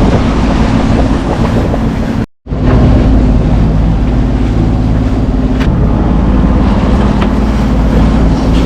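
A yacht's engine running steadily under way, with wind and water noise over it. The sound drops out briefly at a cut about two seconds in.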